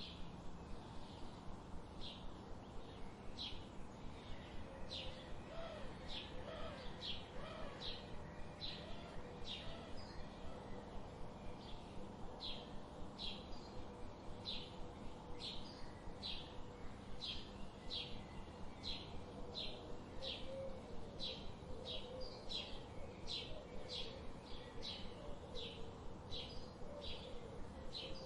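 Wild birds calling: short, sharp high chirps repeated steadily at about one or two a second, with fainter, lower warbling notes from another bird in the background.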